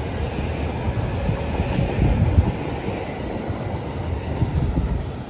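JR Central 315 series electric commuter train pulling out and rolling past close by, a steady run of motor and wheel noise on the rails. The sound drops off at the very end as the last car goes by.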